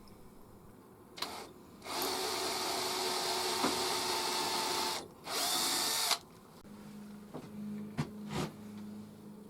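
Power drill drilling pilot holes. It runs in bursts: a short blip about a second in, a steady run of about three seconds, then a shorter run of about a second. After that come a faint low hum and a few knocks.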